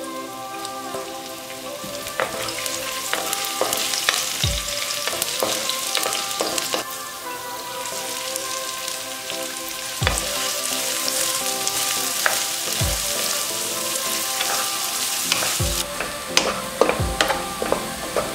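Chopped garlic and ginger sizzling in hot oil with whole spices in a kadai, then chopped onions frying with a steady hiss. A wooden spatula stirs and knocks against the pan now and then, more often near the end.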